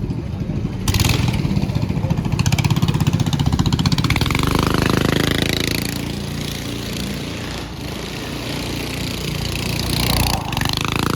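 A vehicle engine revving hard with rapid firing pulses. Its pitch climbs about four seconds in, then eases back.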